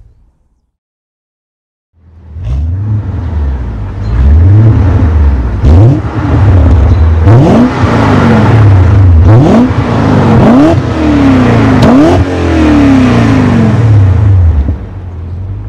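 BMW M5 E39's 4.9-litre V8 through a Borla cat-back exhaust, revved hard several times, each rev rising sharply in pitch and falling back, with a loud exhaust note. It comes in after about two seconds of silence and fades near the end.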